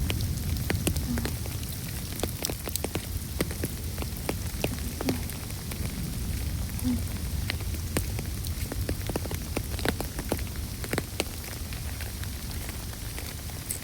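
Steady rain, with individual raindrops ticking sharply on a hard surface, over a low steady rumble.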